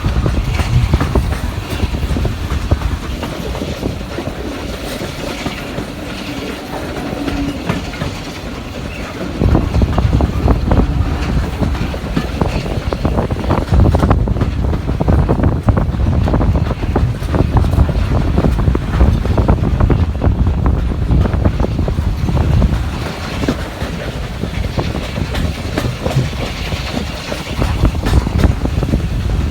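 Heritage railway passenger carriage running along the line: a steady rumble with wheels clattering over the rail joints, growing louder about nine seconds in.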